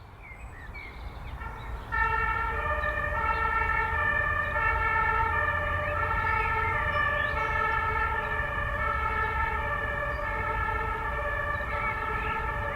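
Two-tone emergency vehicle siren alternating between a high and a low note, a little over a second per high-low cycle, over low city traffic rumble. It grows louder over the first two seconds, then holds steady.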